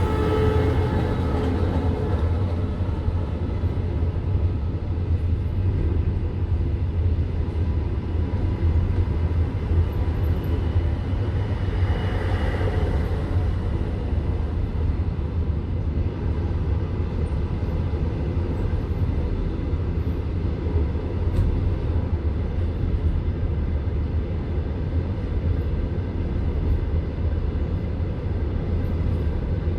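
Passenger railway carriage rumbling steadily on the rails, heard from inside the carriage. There is a brief swell of hiss about twelve seconds in.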